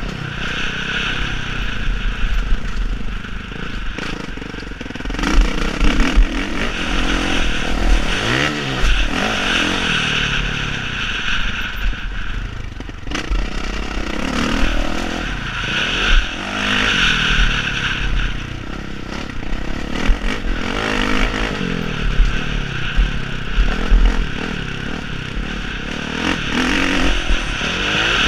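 Motocross bikes on a dirt track, several engines revving up and down, their pitch rising and falling again and again as the riders accelerate and back off.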